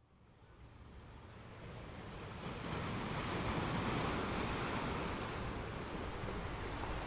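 Sea surf washing on a beach. The sound cuts out abruptly at the start and swells back in over the first two or three seconds, then stays as a steady wash.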